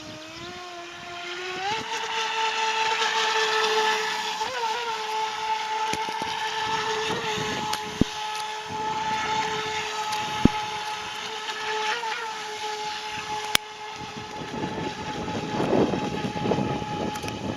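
Small RC jet boat's 3900kv brushless electric motor and jet pump whining, stepping up in pitch about a second and a half in and then holding steady, with water hiss around it. A few sharp clicks stand out, and the noise grows rougher near the end.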